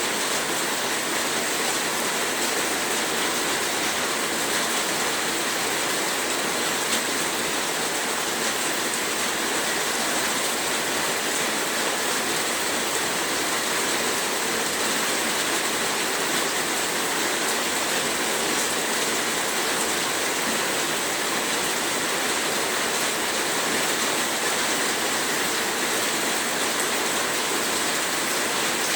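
Heavy rain falling steadily in an even, dense hiss, with faint scattered drop ticks.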